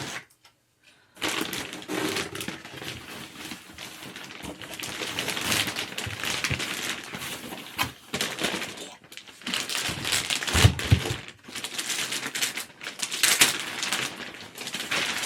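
Packaging and parts of a gaming chair kit being unpacked and handled: rustling and crinkling with rapid small clicks and clatters, and a couple of heavier thumps about ten seconds in.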